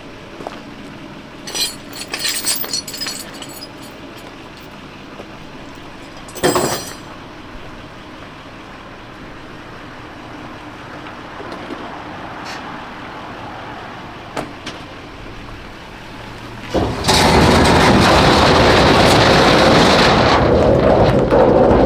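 Vehicle driving off with a loaded trailer: a few rattles and clanks early on over a low running noise, then a much louder steady noise for about five seconds near the end.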